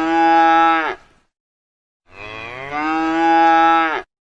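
Cow mooing twice. The tail of one long moo ends about a second in, and after a short pause a second full moo of about two seconds follows, dropping in pitch as it ends.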